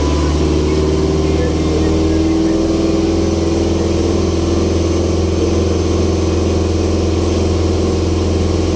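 A heavy engine running steadily: a deep, even hum with a faint high whine that rises a little over the first few seconds and then holds.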